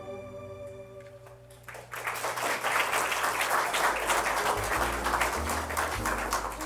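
The last held notes of a choir song fade away, then the congregation claps for about four seconds. Low music notes come in underneath as the clapping goes on.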